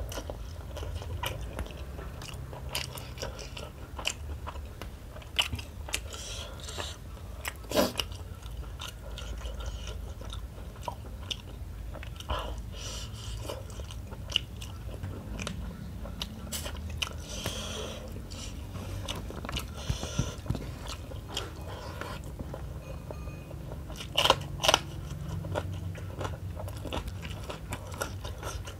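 Close-miked chewing and mouth smacking of a person eating smoked tuna curry with rice by hand, full of short sharp clicks. The loudest clicks come about a quarter of the way in and twice in quick succession near the end.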